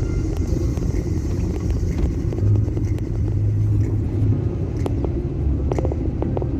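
Car driving: a steady low rumble of engine and road noise, with a held low hum in the middle and a run of sharp clicks in the last couple of seconds.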